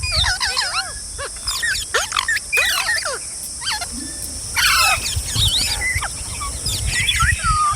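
Several green parrots calling and chattering, with many quick overlapping squawks that swoop up and down in pitch. A steady high hiss runs behind them.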